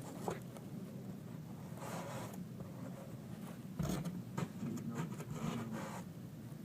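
Soft scraping and rubbing of a board being worked by hand, with a few louder scrapes about two, four and five seconds in.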